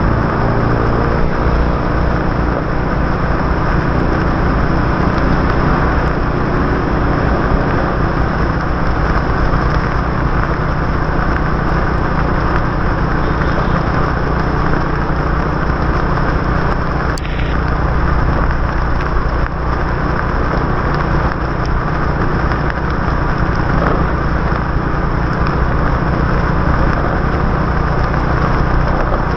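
Motorbike ridden on a wet city road: steady engine hum under a continuous rush of tyre and wind noise, the engine rising in pitch over the first few seconds. A short sharp click about seventeen seconds in.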